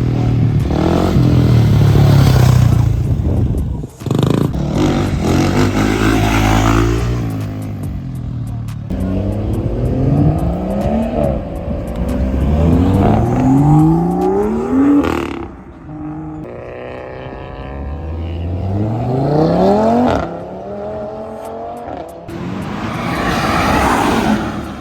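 Performance car engines accelerating hard, the pitch climbing and dropping back several times in quick succession as the cars shift up through the gears.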